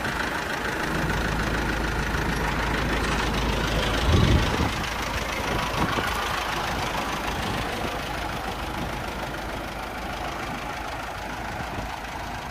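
Kubota L4802 tractor's 2.4 L diesel engine idling steadily, with one loud low thump about four seconds in, after which the deep engine rumble falls away.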